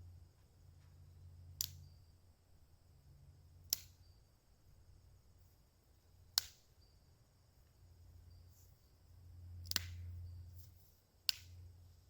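Dry twigs being snapped by hand for kindling: five sharp cracks a couple of seconds apart.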